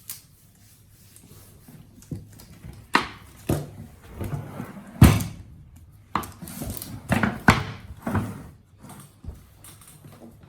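A series of irregular knocks and thuds, the loudest about five seconds in, with a quick cluster of them later on.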